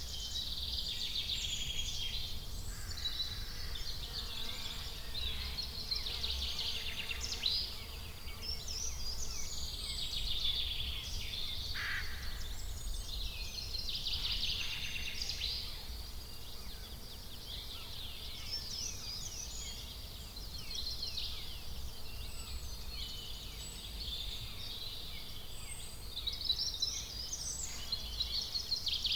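Many small birds chirping and singing at once in a dense chorus, over a steady low rumble.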